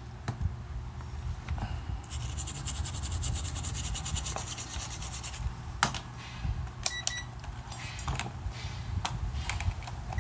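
Bench-repair handling noises over a steady low hum: a fast, even high-pitched ticking for a few seconds, then a series of sharp clicks and a couple of short electronic beeps about seven seconds in.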